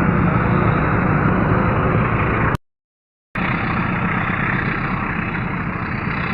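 A diesel train's engine and running noise, steady and loud. It cuts out abruptly to silence about two and a half seconds in for under a second, then resumes.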